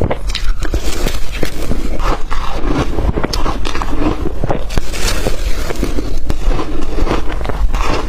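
Close-miked crunching of blender-crushed ice: a person biting and chewing ice, a dense run of irregular crackly crunches.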